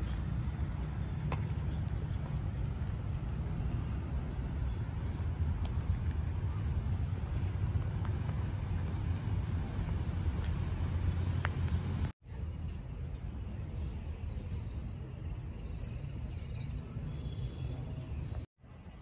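Rural outdoor ambience: a steady low rumble with insects chirping high and continuously, the chirping clearer in the latter part. The sound drops out abruptly twice.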